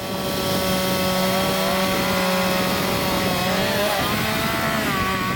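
Chainsaw running at a high, steady pitch while cutting wood, the pitch wavering in the last couple of seconds as the chain loads in the cut.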